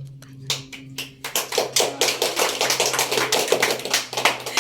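A small group of people applauding: a few scattered claps, then dense clapping from about a second in.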